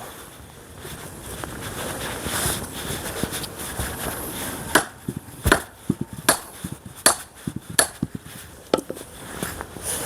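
Axe and a green pine log knocking against wood: about six sharp, quick knocks, starting about halfway through. The unseasoned pine grips the axe head.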